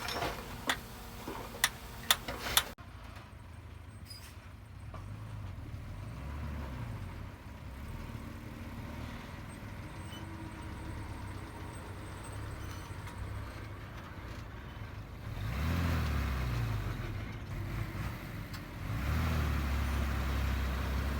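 A few sharp clicks in the first couple of seconds, then the diesel engine of heavy earthmoving machinery running and revving up twice in the second half.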